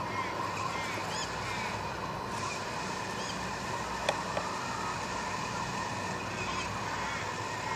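Birds chirping again and again in short arched calls over a steady hiss and hum, with one sharp click about four seconds in.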